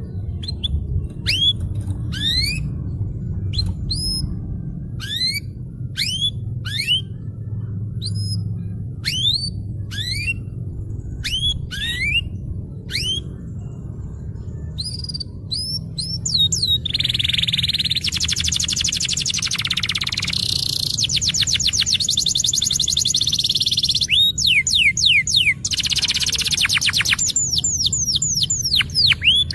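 Domestic canary singing: a string of separate rising whistled notes, about one a second, then from about halfway a fast rolling trill and rapid chattering notes.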